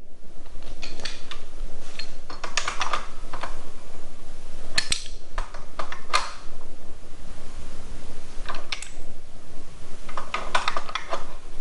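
Stilsons (a pipe wrench) clinking against a motorcycle nut as it is pinched tight. Short clusters of metallic clicks and taps come several times, with pauses between them.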